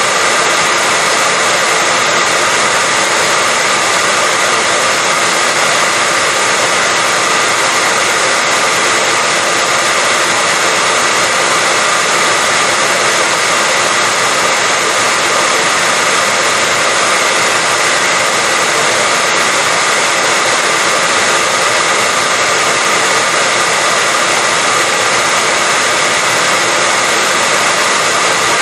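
Hair dryer running steadily on one setting: an even, constant rush of air with a faint steady whine in it.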